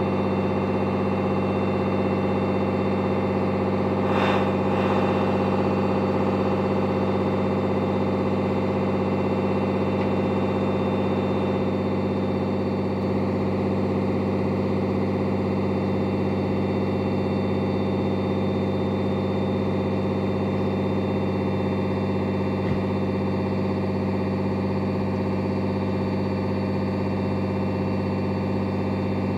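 1988 Unimog SEE's diesel engine idling steadily at an unchanging speed.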